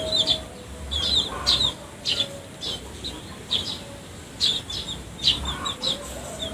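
Eurasian tree sparrows chirping: about ten short, sharp chirps at irregular intervals over several seconds.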